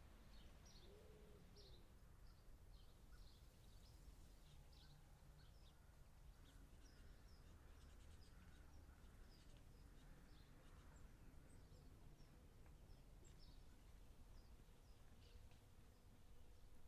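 Faint birds chirping, many short high notes scattered throughout, over a low steady background rumble and hiss.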